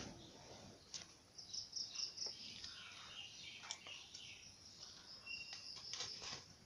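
Birds chirping repeatedly in the background, with a few light clicks and rustles from a taped cardboard parcel being handled.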